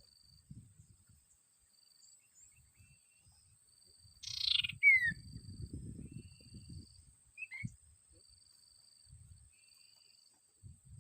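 A bird gives a loud harsh call about four seconds in that ends in a quick falling whistle, and a short sharp note follows a few seconds later. Behind it runs a steady thin high hum and a fainter chirp that repeats every second or so, with some low rustling.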